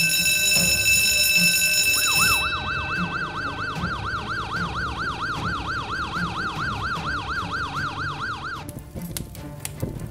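A fire-station alarm bell rings for the first two seconds or so, then a fire engine's fast yelping siren takes over, sweeping up and down about four times a second, and cuts off abruptly near the end.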